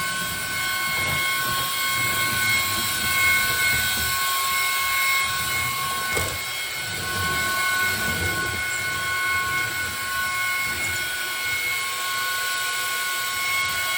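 Ryobi cordless stick vacuum running: a steady high motor whine over a rush of air.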